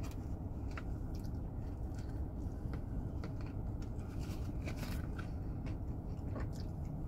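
Close-miked chewing and mouth sounds, a string of small irregular clicks and smacks, over a steady low hum.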